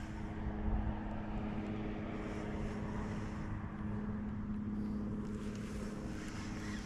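A steady engine drone: a constant low hum with an even pitch over a low rumble.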